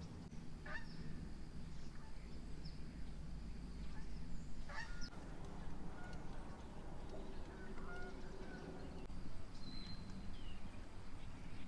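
Night-time camp ambience: a steady low hum with a few short, scattered animal calls, such as honks or chirps, every second or two.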